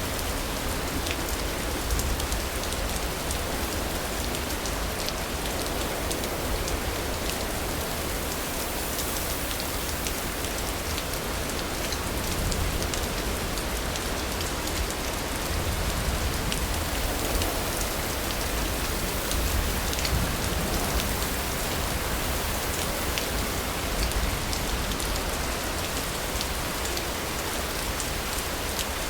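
Steady rain falling and pattering on surfaces, with many small drop ticks over a continuous low rumble.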